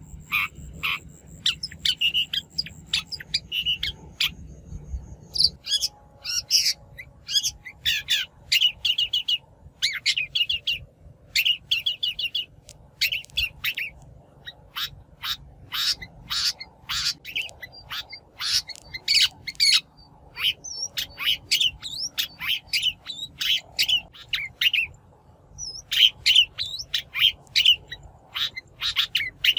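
Shrike (bách thanh) singing a lure song: a fast, dense run of short, harsh chirps and squawks with brief gaps between phrases.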